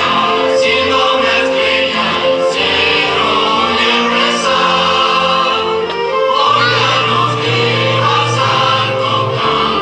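Music with a choir singing in long held notes; a low bass note comes in about six and a half seconds in.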